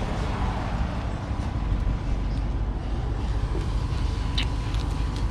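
Low, steady rumble of a vehicle engine idling, with a couple of light clicks about four seconds in.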